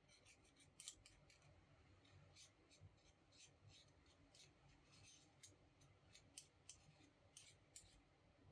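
Faint, irregular small clicks and ticks, some twenty of them spread unevenly over several seconds.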